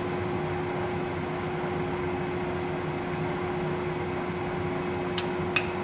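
LeBlond Regal engine lathe running steadily with its power cross feed engaged: a steady mechanical hum with one fixed tone. Two sharp clicks about half a second apart near the end.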